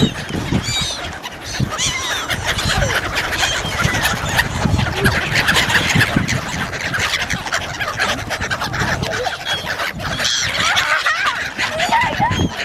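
Many birds calling at once, short overlapping calls piling up into a continuous chatter, of the kind a flock of domestic fowl makes.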